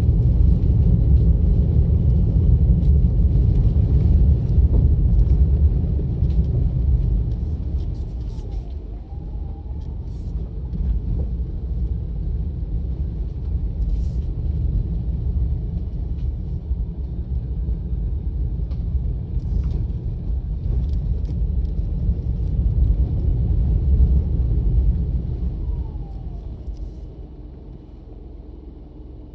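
A car being driven, its low road and engine noise rumbling steadily. The noise eases about seven seconds in, swells again, then drops off near the end.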